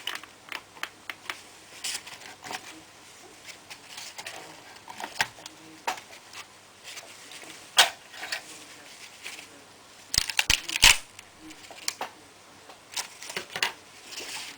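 Small clicks and taps of a screwdriver and plastic laptop parts being handled during disassembly, with a quick run of sharper, louder clicks about ten seconds in.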